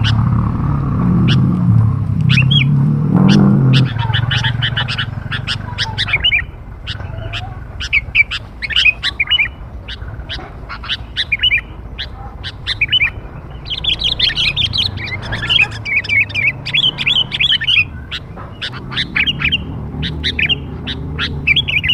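Young sooty-headed bulbul (kutilang) calls: rapid runs of short, sharp chirps, the lure call used to attract wild bulbuls. A low rumble sits under the first few seconds.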